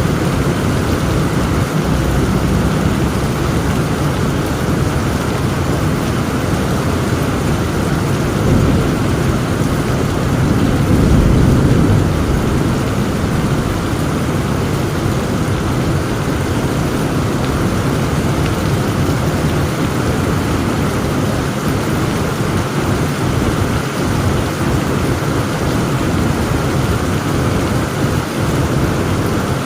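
Heavy rain pouring steadily in a thunderstorm. A low rumble of thunder swells about ten seconds in and fades over a couple of seconds.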